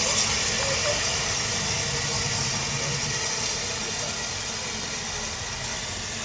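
Steam train running past: a steady hiss over a low rumble, slowly fading.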